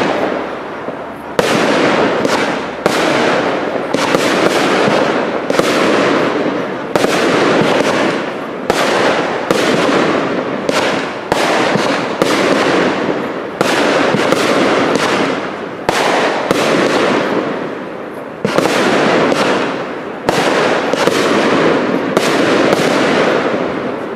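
Cake fireworks firing shot after shot: sharp aerial bangs one or two a second, each trailing off over about a second, with a short lull about three quarters of the way through.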